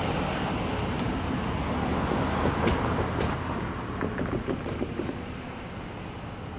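Union Pacific coal train rolling through a road crossing: a steady low rumble with a run of sharp wheel clacks in the middle, growing quieter in the second half.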